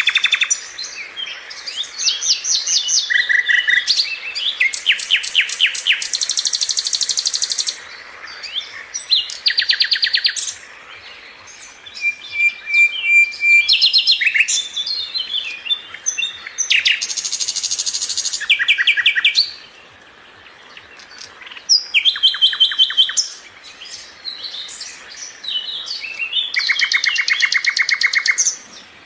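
A sikatan londo (flycatcher) singing in loud, varied phrases of rapid repeated notes and fast trills. The phrases come in bursts of a few seconds, broken by short pauses.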